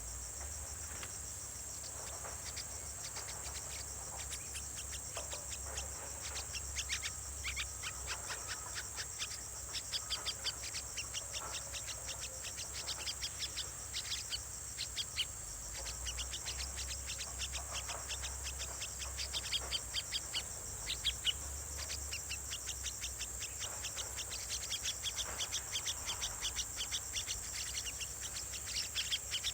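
Nestling bird giving short, high-pitched begging calls in quick runs, screaming for food because it is hungry.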